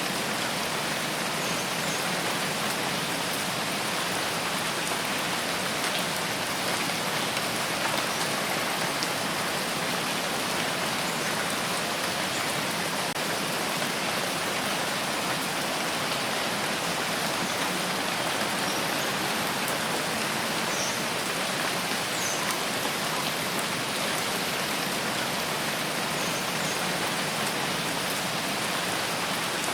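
Steady rain falling, an even unbroken hiss of drops landing on a surface.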